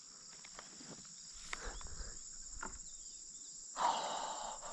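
Steady high-pitched chorus of crickets and other insects, with a brief, louder burst of noise about four seconds in.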